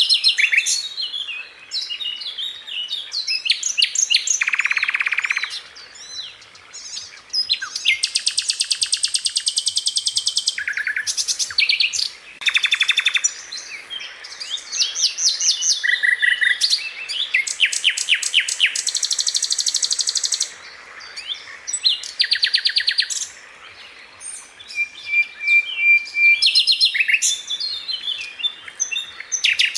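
Sikatan londo flycatcher singing a varied, fast song: rapid rattling trills (rolls), some held for a couple of seconds at a high pitch, broken up by short whistled notes and brief pauses.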